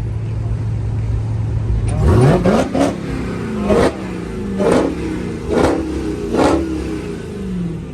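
Car engine idling, then revved hard about two seconds in and blipped repeatedly, about six quick revs roughly a second apart, settling back toward idle near the end.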